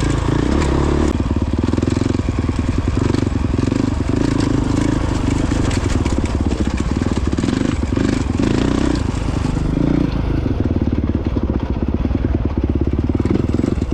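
Honda CRF450X's single-cylinder four-stroke engine running steadily under way on a dirt trail, with scattered clicks and knocks throughout.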